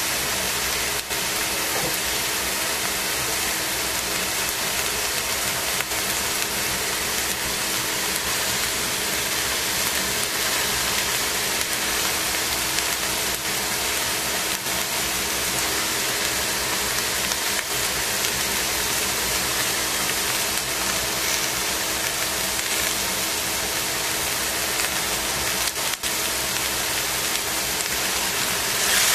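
Cabbage, carrots and mushrooms sizzling steadily in a stainless steel pot, with a faint steady hum underneath.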